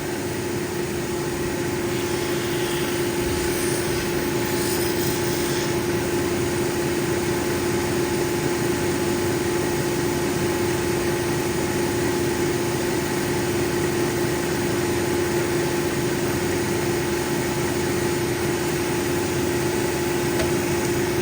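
Lapidary cabbing machine running with a steady motor hum over wet grinding-wheel noise, with a short higher hiss a few seconds in.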